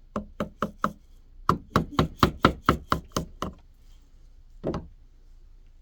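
Sharp wooden knocks in quick runs of strikes, about four a second, from a tool striking a birch carving, with one last knock near the end.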